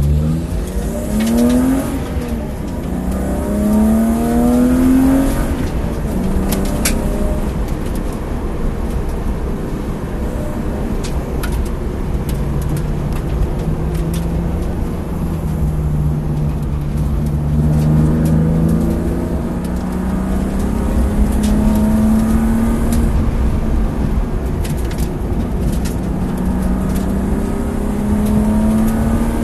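BMW E36 325i's 2.5-litre straight-six heard from inside the cabin, revving up through the gears with two rising climbs and a gear change in the first five seconds. It then pulls at moderate revs with the pitch slowly rising, with a few sharp clicks along the way.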